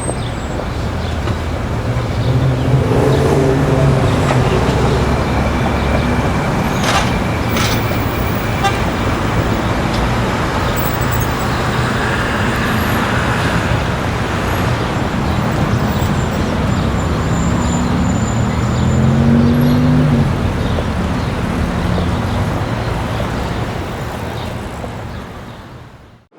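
Traffic noise: road vehicles running past, with engine hum rising twice and a brief horn toot, fading out at the end.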